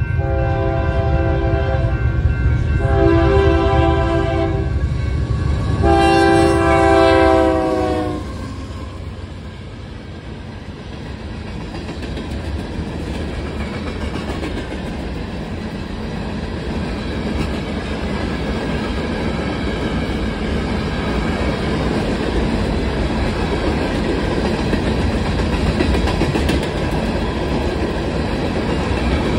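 Freight train going through a grade crossing. The locomotive's air horn sounds three blasts over the low engine rumble, and the third, longest blast drops in pitch as the locomotive passes. Then comes the steady rumble and clatter of the freight cars rolling by, slowly growing louder.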